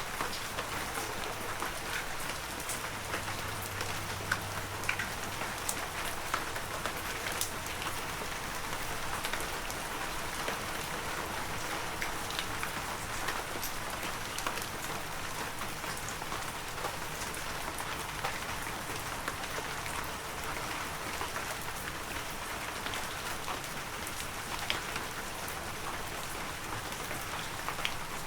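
Heavy rain falling steadily, with many separate drops ticking on nearby surfaces.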